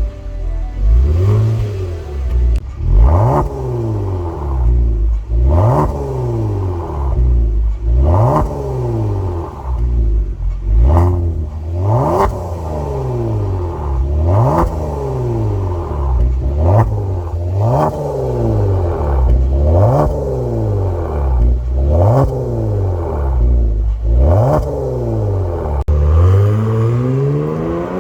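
Kia Stinger 3.3's twin-turbo V6 through a custom valved end exhaust, revved again and again: about a dozen quick throttle blips, one every two seconds or so, each climbing in pitch and dropping back.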